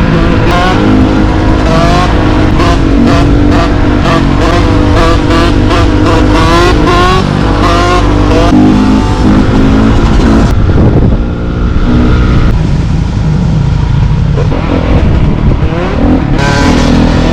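Dirt bike engine running loud and being revved over and over, its pitch rising and falling in quick repeated blips, with a short drop in level about eleven seconds in.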